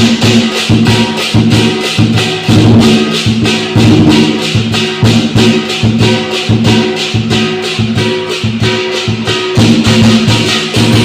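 Lion dance percussion: a drum with clashing cymbals and a ringing gong playing a fast, steady beat, about four cymbal clashes a second.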